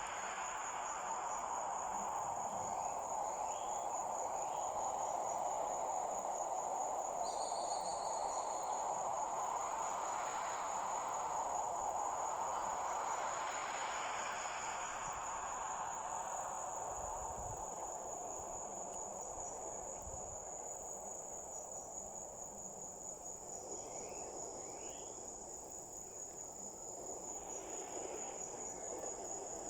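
A steady, unbroken high-pitched insect trill over a soft rushing noise that swells and eases, with a few brief higher chirps about seven seconds in.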